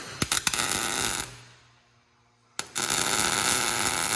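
Arc welding on steel exhaust pipe, a dense crackle. A first burst of about a second opens with a sharp click and tails off, then after a short pause a second, steadier burst starts abruptly a little past halfway.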